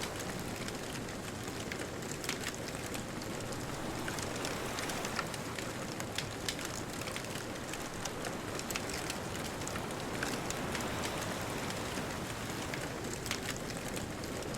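Wood bonfire crackling, with many irregular sharp pops and snaps, over a steady hiss of distant ocean surf.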